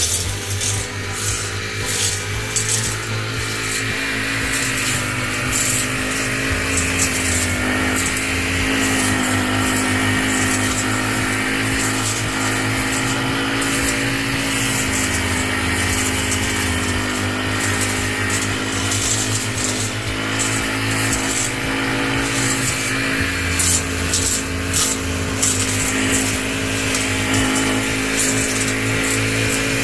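Motorised garden trimmer running steadily while cutting back an overgrown flower bed, its motor holding a near-constant pitch with crackling from the cut growth.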